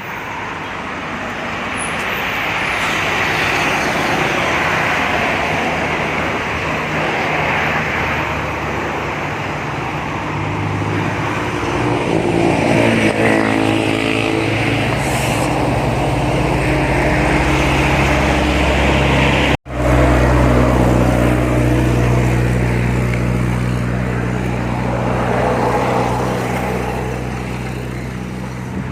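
Engine noise: a low, steady motor drone over a hiss, growing stronger about halfway through, with a brief break partway.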